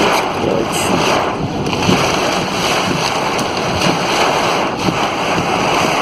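Steady loud rush of a heavy downpour and floodwater flowing through a street, with wind buffeting the microphone.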